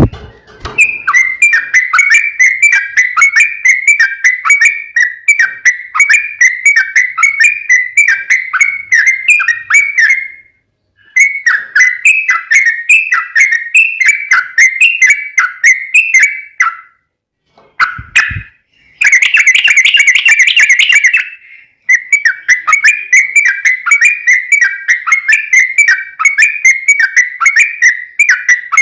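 Yellow-vented bulbul (trucukan) in full song: long, rapid runs of repeated whistled notes, broken by a few short pauses. Just before the loudest, densest run near the middle there is a brief dull knock.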